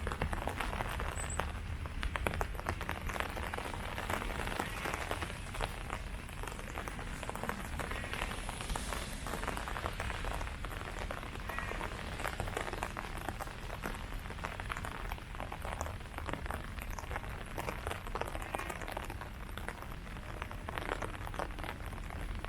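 Steady rain falling on leaves: a dense, irregular patter of drops over an even hiss.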